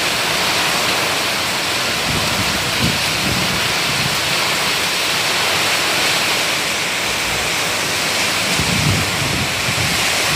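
Heavy rain pouring down steadily in a storm, with low rumbles about two to three seconds in and again near the end.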